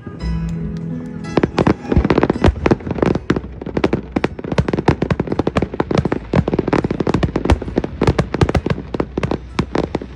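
Fireworks going off in a rapid, dense barrage of sharp cracks and bangs, several a second, starting about a second in. Music plays under the opening second.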